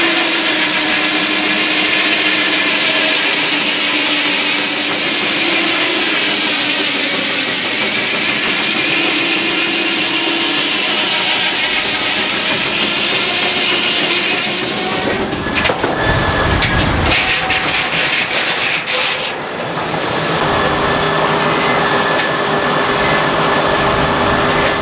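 Sawmill running, loud and steady. About two-thirds of the way through, a heavier low rumble with rapid knocking lasts some four seconds, after which a steady whine holds.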